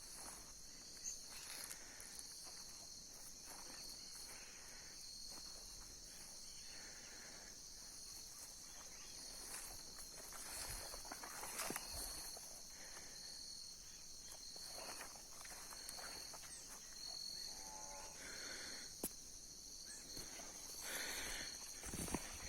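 Crickets and other insects in a steady high-pitched chorus, with a cricket chirping in an even rhythm. Faint rustling footsteps in dry leaves come and go underneath.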